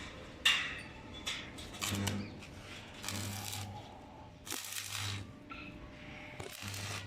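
Stick welding in short runs: the arc crackles and hisses in about five separate bursts, each with a low mains hum from the transformer welder under load.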